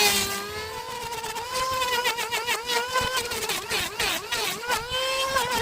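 A small motor running fast, its pitch wavering up and down as the load changes.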